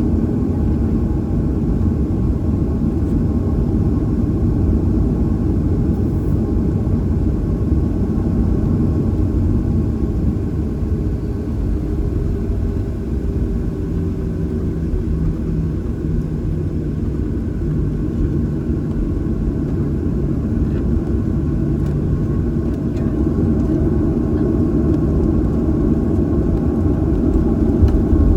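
Steady low cabin rumble of a Boeing 737-800 on the ground, its CFM56-7B engines at idle, heard from inside the cabin, with a faint steady hum in the middle.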